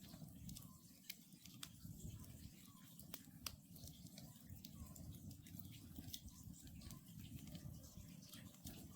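Wood campfire crackling, with frequent sharp irregular pops over a low steady rush. Faint short calls of a distant Oriental scops owl recur every second or so.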